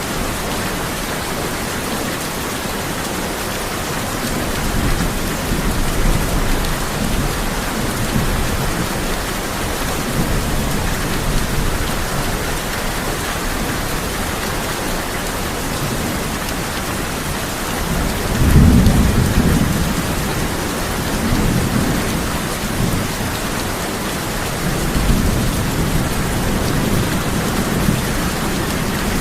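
Steady heavy rain drumming on a tin roof, with rolls of distant thunder rumbling several times; the loudest roll comes about two-thirds of the way through.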